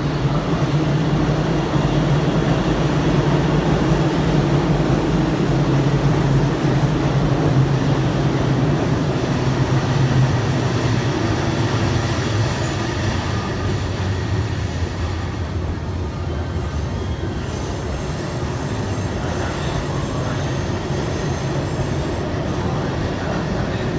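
A JR 651 series electric train pulling slowly out of the station: a steady low hum and rumble from the passing cars and their wheels on the rails, easing somewhat about halfway through.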